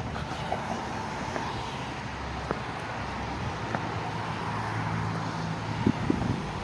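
A car passing on a nearby street: engine hum and tyre noise swell toward the middle and fade near the end, over steady outdoor traffic noise.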